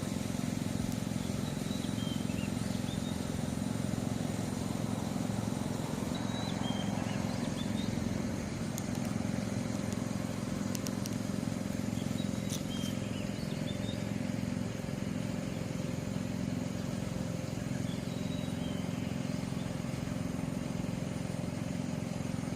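Steady low mechanical hum, like a running engine, continuing without a break, with a few faint, short high chirps over it about two, seven, thirteen and nineteen seconds in.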